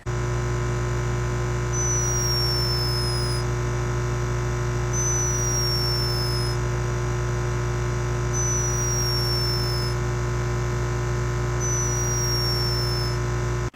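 Steady electronic hum made of many held tones, with a short high falling beep about every three seconds, four times; it starts and stops abruptly.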